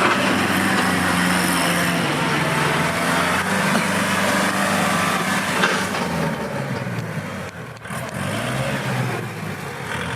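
Kubota L5018SP tractor's diesel engine running with a steady drone and a broad rushing noise over it, dipping briefly in level about eight seconds in before picking up again.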